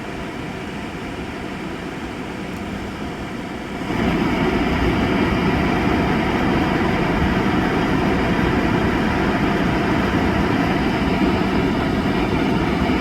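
Steady noise of an idling vehicle's engine and ventilation heard from inside the cab, which turns suddenly louder about four seconds in and then holds steady.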